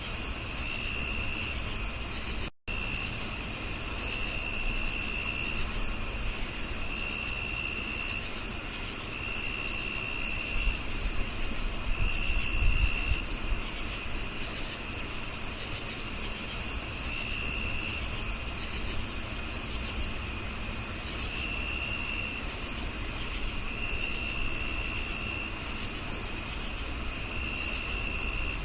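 Several crickets chirping together: a steady high ring, a quick regular chirp about three times a second, and a lower trill in short bursts every couple of seconds. The sound cuts out for a split second about two and a half seconds in.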